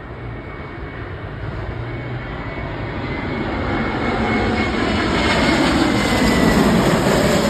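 Airbus A320 jet on landing approach, its engine noise growing steadily louder as it passes close, with a faint high whine above the rush.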